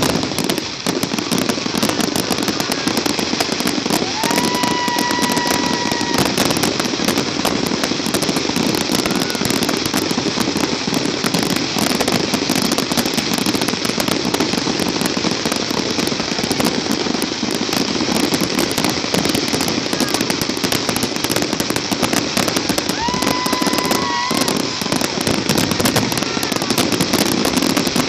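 Fireworks going off: a dense, continuous crackling and popping that goes on without a break. Twice a steady whistle rises over it for about two seconds, once early on and once near the end.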